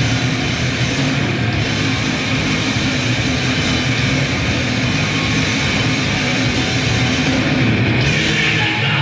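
Grindcore band playing live: loud, dense, unbroken rock instrumentation with guitar.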